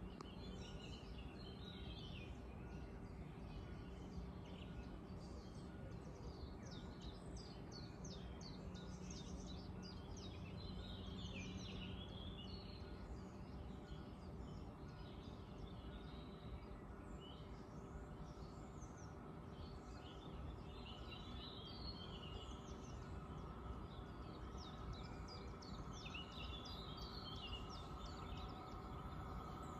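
Small birds chirping and singing on and off over a faint, steady low background rumble, with faint steady tones that grow a little stronger near the end.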